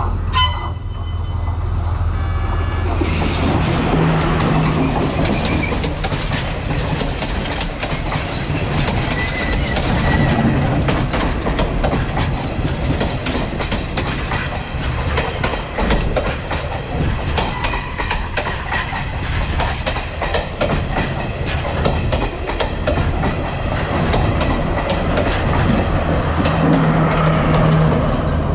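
Diesel train passing close by, its wheels clattering over the rail joints in a dense run of clicks above a steady low engine drone. A short horn note sounds right at the start.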